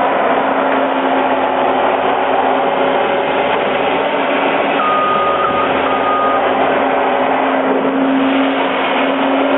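A motor vehicle's engine running steadily under a dense hiss, with a brief high beep tone about halfway through.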